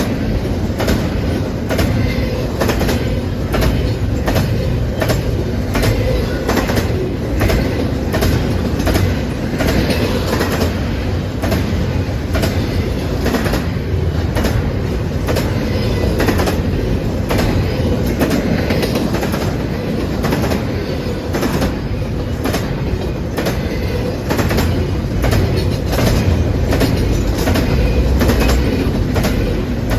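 A freight train's cars rolling past with a steady heavy rumble. The wheels clack rhythmically over rail joints at an even pace throughout.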